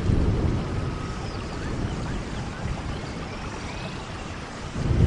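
Steady rainforest rain with low rolling thunder, heaviest at the start and swelling again near the end, and a few faint high chirps.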